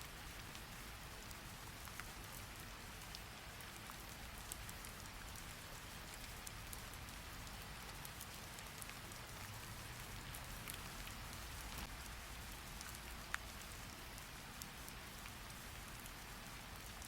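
Steady rain falling, an even hiss, with a few scattered faint ticks; one sharper tick comes about three-quarters of the way through.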